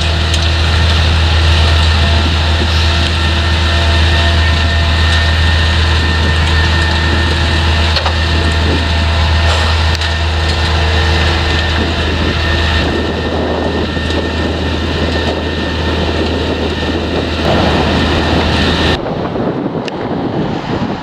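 Heavy farm machinery at potato harvesting, its diesel engine running steadily with a deep hum and mechanical clatter. Partway through, the steady hum gives way to rougher noise, and near the end the deep hum drops away, leaving mostly wind on the microphone.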